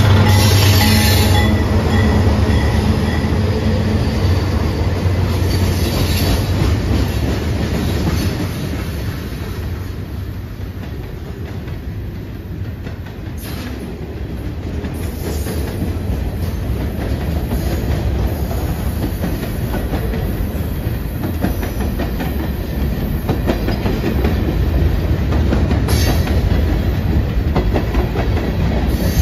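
Diesel-hauled freight train passing: the lead locomotive's engine drones for the first few seconds, then boxcars and tank cars roll by with a steady rumble and clickety-clack of wheels over the rail joints.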